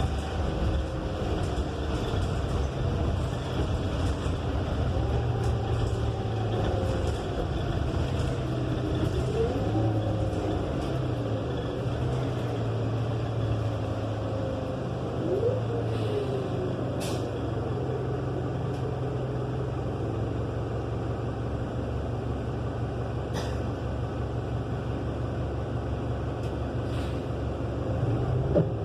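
Inside a 2018 New Flyer XN35 city bus on the move, its Cummins Westport L9N natural-gas engine running loud and steady, with no HVAC fan running. A drivetrain whine rises and falls in pitch, and a few sharp rattles or clicks come through. The engine pitch starts to rise at the very end as the bus speeds up.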